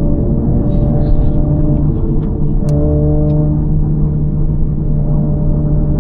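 Honda Civic FL5 Type R's 2.0-litre turbocharged four-cylinder with an HKS Legamax exhaust and aftermarket downpipe, heard from inside the cabin as a steady drone at fairly constant revs. The pitch steps up slightly a little before the middle, and a few faint clicks sound over it.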